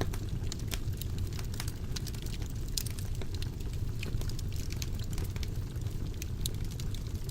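Fire burning in a fireplace, crackling: a steady low rumble of flames with many irregular sharp crackles and pops.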